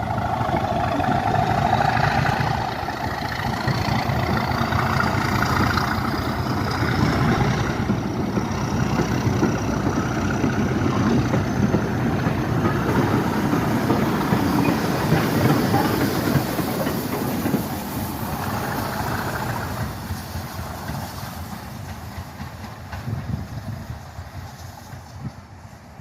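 Heritage railway train running past and pulling away, a steady low engine and wheel rumble with a faint rising whine above it, fading over the last several seconds.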